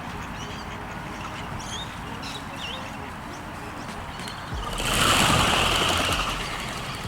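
Small birds chirping in short, pitch-gliding calls, then about two-thirds of the way through a louder rushing noise swells for about two seconds and fades.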